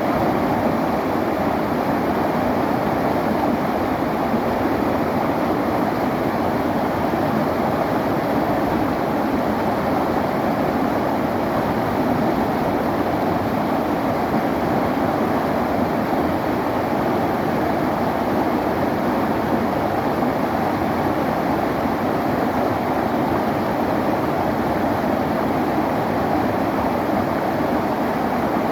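Clear river flowing: a steady, even rush of water that keeps the same level throughout.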